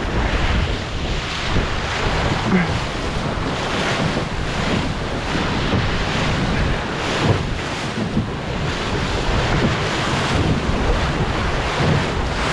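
Wind buffeting the microphone over water rushing and slapping along the hull of an E Scow sailboat under way, with a few louder splashes.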